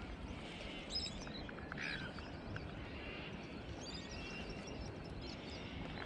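A few faint, short bird chirps, scattered over several seconds, above a low steady outdoor background noise.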